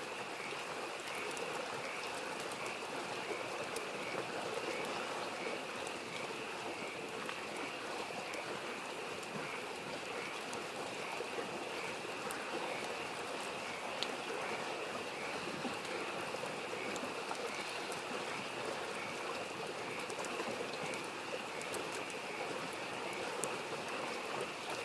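A stream babbling steadily, with frogs calling in an even, pulsing chorus over it and a few sharp crackles from a campfire.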